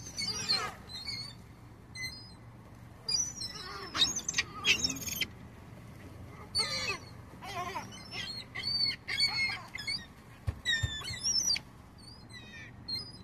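A flock of seagulls calling over and over in short, high, wavering cries as they crowd in for thrown food.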